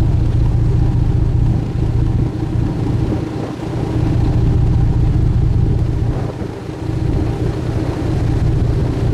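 Steady low drone of a sightseeing ship's engine, dipping briefly about three and a half seconds in and again around six and a half.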